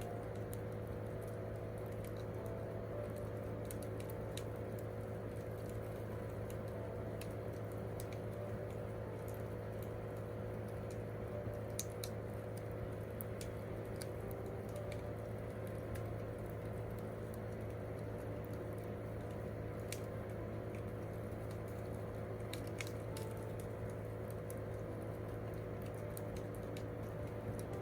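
Wood campfire crackling, with scattered sharp pops and ticks over a steady low hum.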